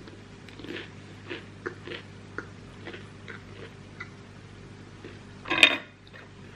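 A person chewing a bread roll filled with kebab meat, béchamel and melted cheese, with small wet mouth clicks and smacks. There is a single louder short sound about five and a half seconds in.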